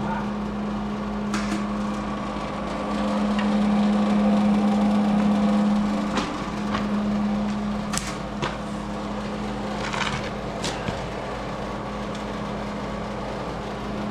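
A steady machine hum with a few sharp clicks and knocks. The hum swells louder for a few seconds from about three seconds in.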